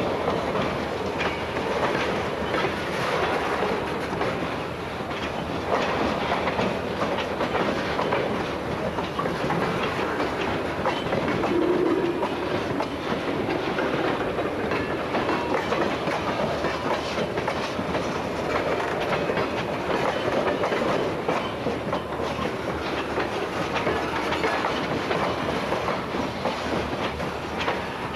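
Freight train rolling past, its car wheels clicking steadily over the rail joints.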